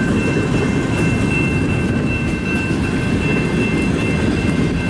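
Freight train cars rolling past with a steady low rumble and a thin, steady high-pitched tone over it.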